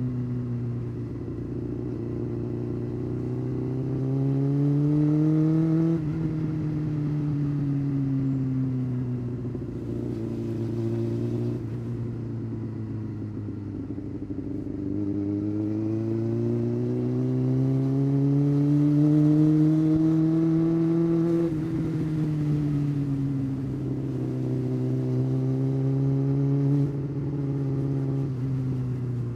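Honda CBR600 F4's inline-four engine under way, its pitch climbing under acceleration and dropping sharply at each upshift, three times. Between the first two shifts the revs sink slowly as the throttle eases off.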